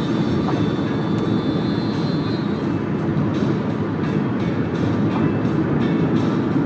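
Steady road and engine rumble heard inside the cabin of a moving Toyota Camry 2.4.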